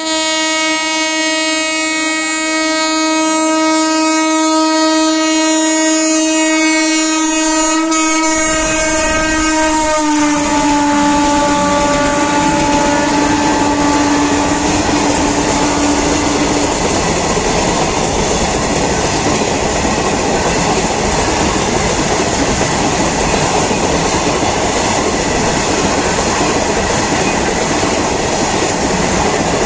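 WAG-7 electric locomotive's horn sounding one long steady blast as it approaches. About ten seconds in the horn drops in pitch as the locomotive passes, then fades away. From about eight seconds the loud, steady rumble and clatter of the train rushing past at speed takes over.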